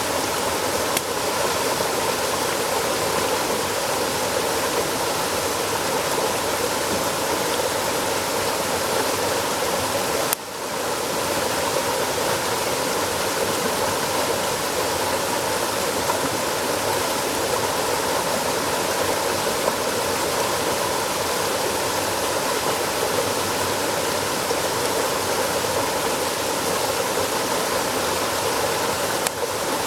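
Steady rushing noise of flowing water, like a stream, with one brief drop-out about ten seconds in.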